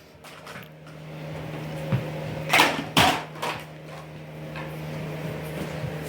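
A steady low electrical hum starts about a second in and keeps going, with a few sharp knocks and clatters around two to three seconds in.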